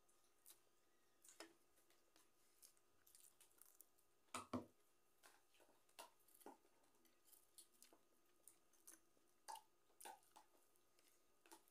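Faint eating sounds: chewing and small scattered mouth clicks and ticks as rice and dried fish are eaten by hand, with a louder double knock about four and a half seconds in.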